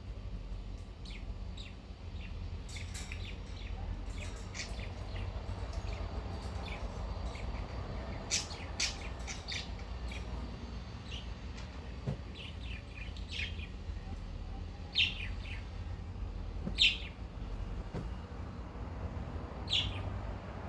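Cockatiel giving short, scattered chirps, a few louder ones standing out, over the steady low hum of an electric fan.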